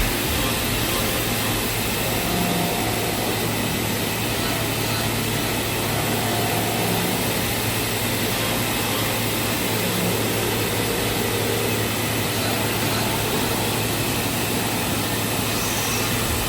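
8-axis CNC wood milling and turning machine running, a steady mechanical noise with a constant low hum and a faint high whine.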